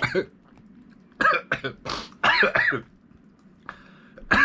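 A man coughing and clearing his throat in several short, hard bursts, choking after green onion went up his nose while eating.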